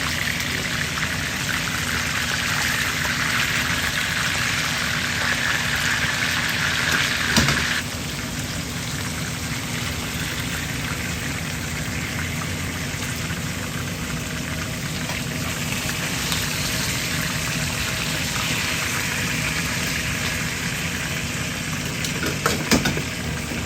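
Fish frying in hot oil: a steady sizzling hiss that drops abruptly in its upper part about eight seconds in, with a few clicks near the end.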